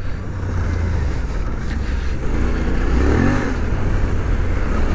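Suzuki V-Strom 800DE's parallel-twin engine running under throttle on a dirt trail. Its revs rise and fall briefly about three seconds in, over a steady low rumble.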